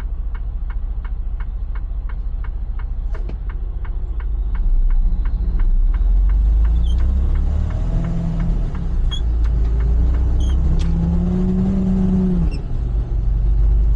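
Semi truck's diesel engine running with the turn signal clicking about three times a second. About five seconds in the engine grows louder as the truck pulls away, rising in pitch as it accelerates, and the clicking stops a couple of seconds later.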